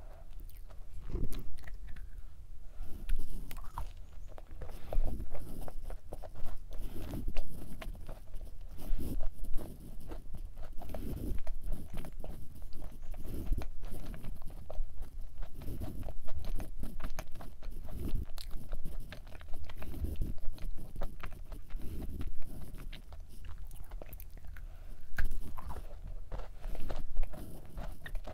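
A person chewing a thick, soft matcha cookie with nuts close to the microphone: wet, steady chewing with small crunches from the nut pieces, in irregular surges about once a second.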